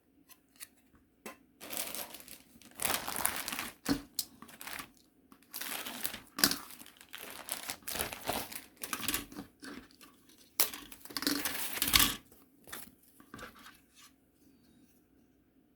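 Plastic packaging of a model kit's parts crinkling and rustling as it is handled, in irregular swells, the loudest near the end.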